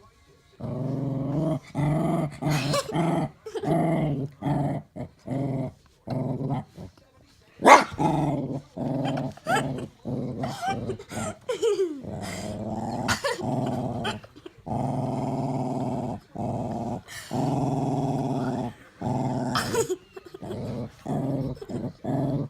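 A dog growling over its bone while a child tries to take it, in repeated long rumbles with short breaks between them. A sharp, loud sound cuts in once about eight seconds in.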